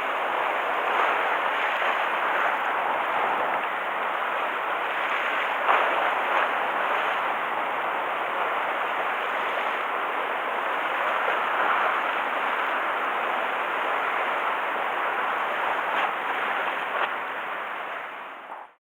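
Waves washing against the harbour, a steady rush of water with a few small splashes, fading out near the end.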